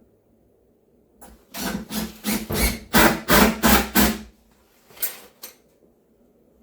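Power screwdriver driving screws into the wooden cabinet base, run in several short pulses of the trigger for about two and a half seconds, then two brief blips.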